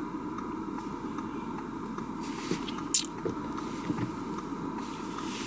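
Steady road and engine noise heard inside a car's cabin while driving on snow-covered roads, with one brief sharp noise about three seconds in.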